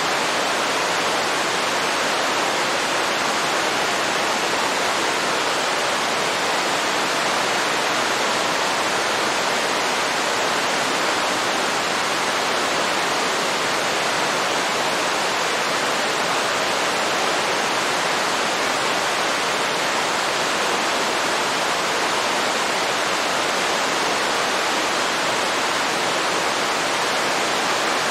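Waterfall: water falling and rushing in a steady, unbroken sound.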